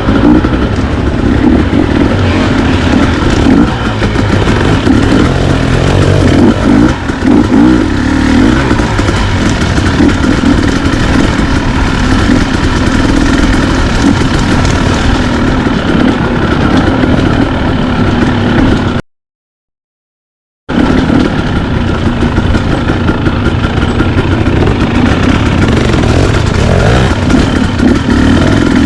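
Dirt bike engine running while riding, its revs rising and falling. The sound cuts out completely for about a second and a half about two-thirds of the way through.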